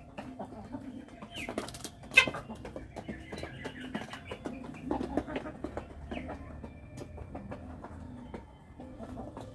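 A flock of domestic chickens clucking while they feed, with short calls and scattered clicks and taps, and one loud sharp tap about two seconds in.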